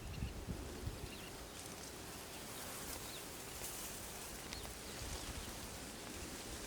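A few faint, short bird chirps, spaced a second or more apart, over steady outdoor background noise.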